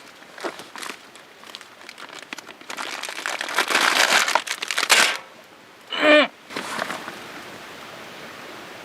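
Crinkling and rustling handling noise, loudest about three to five seconds in, then a brief pitched squeak about six seconds in.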